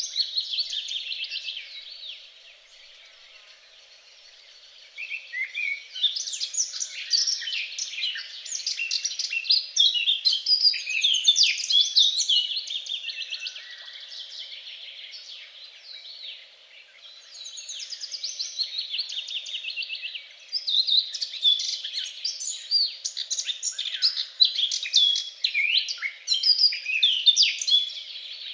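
Songbirds singing in long runs of rapid chirps, trills and whistles, with two quieter lulls, one about two seconds in and one midway.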